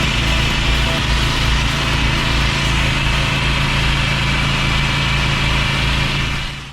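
Engine-driven pressure washer running steadily, its engine tone under the hiss of the spray, fading away near the end.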